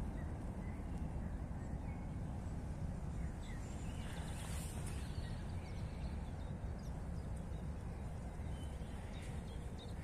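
Faint birds chirping now and then over a steady low rumble.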